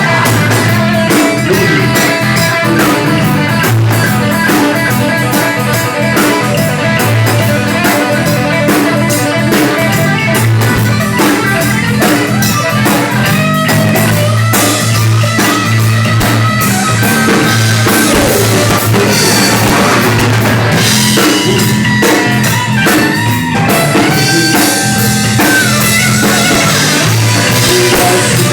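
Rock and roll band playing an instrumental passage: guitar over a drum kit, with a steady beat and a strong low bass line.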